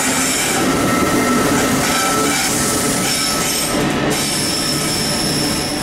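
Class 88 locomotive 88005 passing with a container freight train, then its loaded container flat wagons rolling by. The wheels squeal on the rails in steady high-pitched tones over a continuous rumble.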